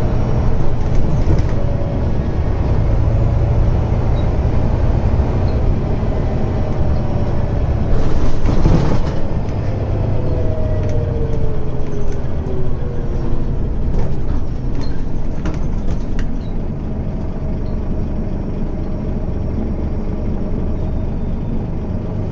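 Scania N94UD double-decker bus running with a steady low engine rumble. About eight seconds in there is a brief noisy burst, followed by falling whines over the next few seconds.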